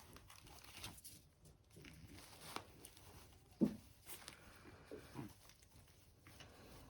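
Puppies making a few short, low calls, the loudest about halfway through and two more close together shortly after. Faint scuffling and rustling runs underneath.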